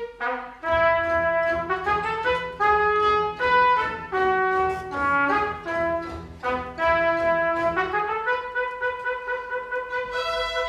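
Solo trumpet playing a brisk melody of short, separated notes over a string orchestra accompaniment, settling on a held note near the end.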